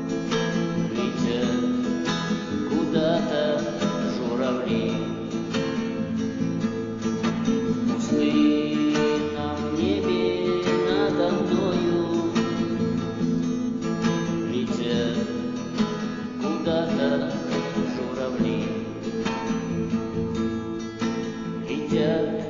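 Acoustic guitar strummed and picked in an instrumental break between verses of a Russian yard song.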